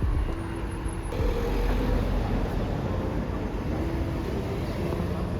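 Steady low rumble of road vehicles or traffic, with a faint steady hum over it.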